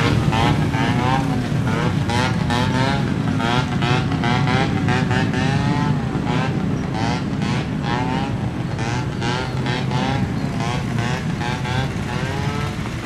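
Steady engine drone with a wavering higher sound over it.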